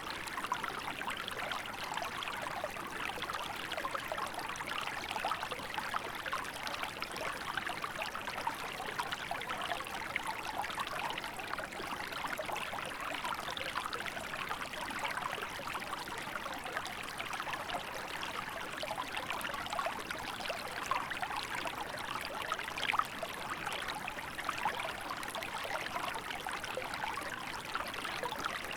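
Small river running in winter: a steady babble of flowing water with fine trickling and splashing detail.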